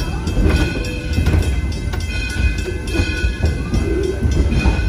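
Passenger train rolling behind Baldwin steam locomotive No. 7, heard from the car: a steady low rumble of the running gear on the track, with a high thin whine coming and going and occasional sharp clacks.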